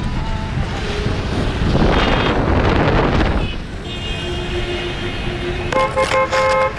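Vehicle driving on a wet road, a steady low rumble with wind buffeting the microphone and a rush of hiss in the middle. A horn sounds in short repeated beeps near the end.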